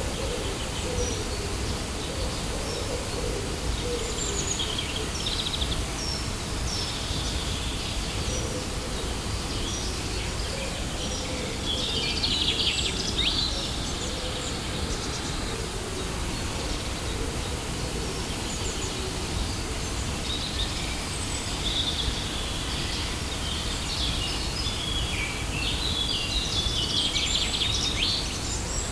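Steady rush of a waterfall, with birds chirping and calling over it; the bird calls are busiest about halfway through and again near the end.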